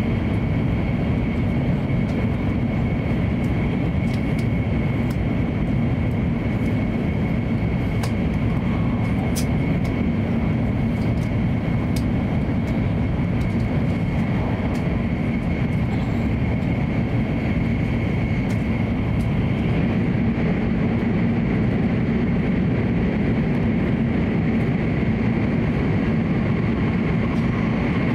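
Hokuriku Shinkansen train at speed, heard inside the passenger cabin: steady running noise, mostly low, with a thin steady whine above it and a few faint ticks.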